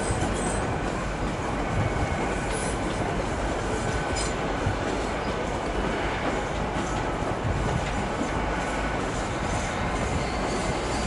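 Great Western Railway Hitachi Intercity Express Train running slowly through the station pointwork: a steady rumble with a faint, thin wheel squeal.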